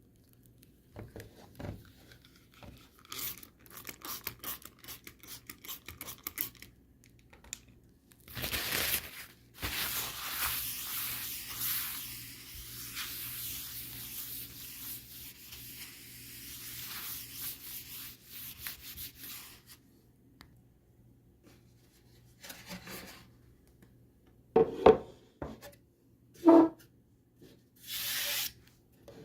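Wiping down a kitchen countertop by hand: uneven rubbing and scrubbing over the surface, longest and loudest from about 8 to 20 seconds in. A few sharp knocks near the end, as of objects set down on the counter.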